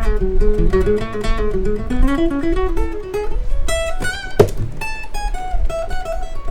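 Seagull S6 Spruce steel-string acoustic guitar played solo: a run of plucked single notes over a moving bass line, with one sharp percussive strike about four and a half seconds in.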